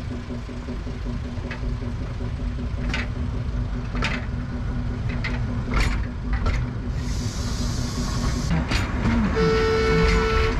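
Akasawa forest railway's small narrow-gauge train running: a steady low rumble and drone from the running gear, with scattered sharp clicks from wheels on the rails. About seven seconds in a hiss rises and falls, and near the end a held high tone sounds.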